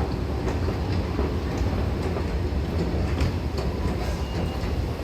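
Low, steady rumble of a subway train running through the station beneath Grand Central, with a few faint clicks.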